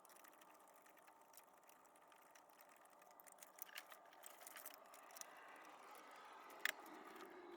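Near silence, with faint scattered clicks in the second half and one sharper click near the end.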